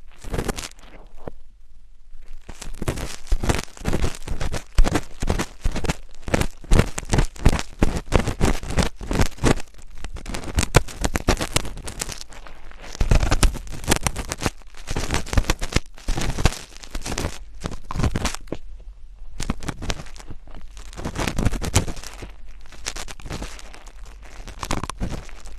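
Close-miked ASMR scratching: rapid, crackly scratching and crinkling strokes in a dense run, with a brief pause about a second in.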